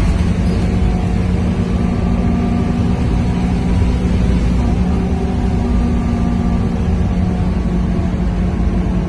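Scania K230UB bus's 9-litre five-cylinder diesel engine running steadily, its low drone holding at a constant pitch.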